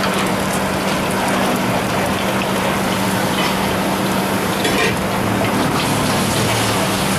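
Oil sizzling in small woks as batter fries over gas burners, with a metal spatula scraping and clinking against the pans now and then, over a steady low hum.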